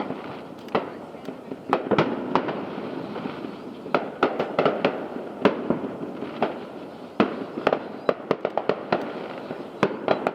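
Aerial fireworks exploding in a rapid, irregular string of bangs and pops over continuous crackling, with a few louder booms standing out.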